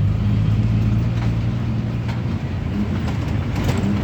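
Ashok Leyland JNNURM city bus engine running under way, heard from inside the bus: a steady low drone that eases slightly midway and picks up again near the end, with a few short rattles.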